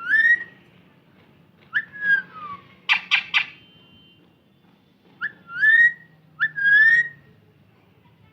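Parrot whistling: four separate whistles, most rising and then held briefly, one falling away, with a quick run of four sharp chirps in between, about three seconds in.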